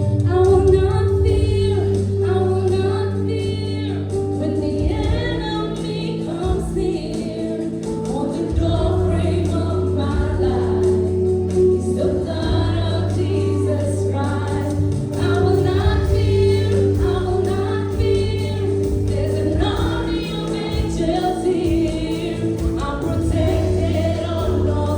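Worship team singing a Christian worship song together in harmony, over steady held chords.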